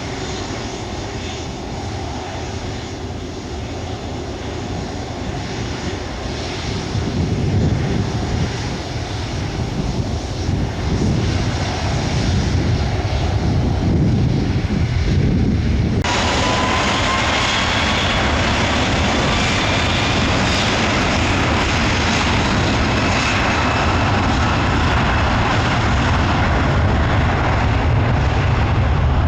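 Jet airliner engines at takeoff power: a deep, dense rumble that grows louder a few seconds in. About halfway through the sound changes abruptly, and a faint rising engine whine sits over the rumble.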